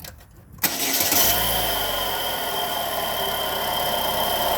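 2012 Chevrolet Sonic engine starting about half a second in, then running steadily with a thin high steady whine over the idle. This is the strange noise that the owner suspects comes from the alternator or the serpentine belt tensioner.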